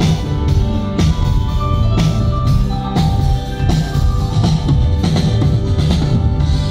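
Live band playing through a PA during a sound check: a drum kit keeps a steady beat under bass and held notes from other instruments.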